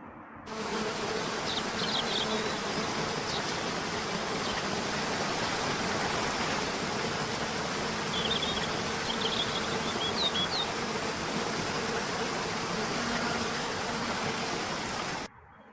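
Outdoor field sound: a steady, even hiss with a faint buzzing hum, and small birds chirping in two short spells, a couple of seconds in and again around the middle. It starts suddenly just after the start and cuts off suddenly near the end.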